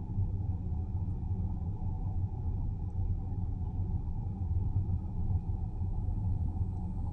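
Steady low rumble of a car driving along a road, mostly tyre and road noise at a constant speed.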